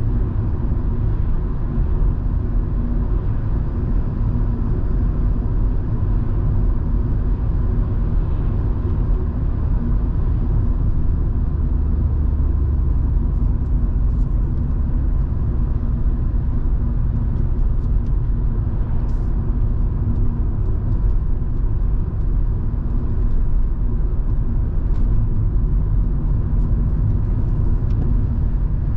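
Volvo V70 2.5T's turbocharged five-cylinder engine and tyres giving a steady rumble while driving, with a few faint ticks over it.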